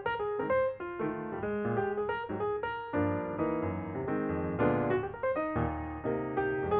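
Background piano music: a steady run of notes over sustained chords.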